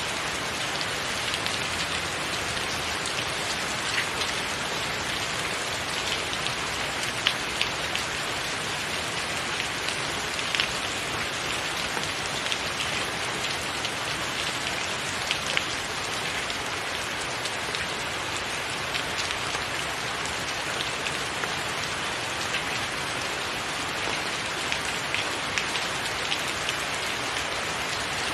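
Steady rain falling on a roof, an even hiss with many individual drops ticking loudly through it.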